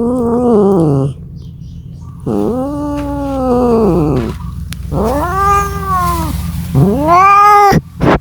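Domestic cat yowling: four long drawn-out calls, each rising and then falling in pitch, with a short call near the end, over a low steady hum.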